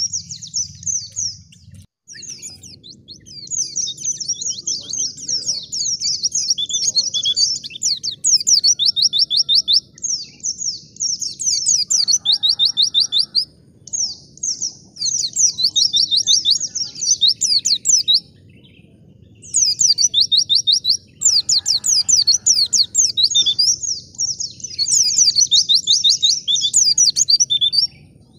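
Wild white-eye (pleci) singing a fast, high-pitched chattering song in long runs of rapid notes, broken by a few short pauses, over a faint steady low hum.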